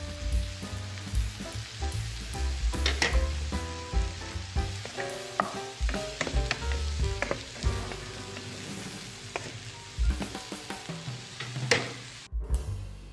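Sliced carrots and corn sizzling in a frying pan as they are stirred, with sharp knocks of the utensil against the pan now and then, loudest about three seconds in and near the end. The sound cuts off abruptly shortly before the end.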